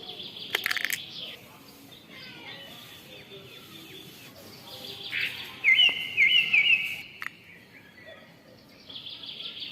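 Songbirds chirping and singing, with a loud run of quick repeated rising notes about six seconds in. A few brief clicks are mixed in.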